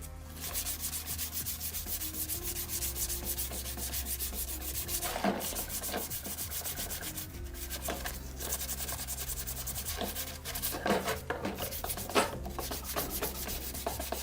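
Hand sanding with quick back-and-forth strokes, about three a second, pausing briefly twice.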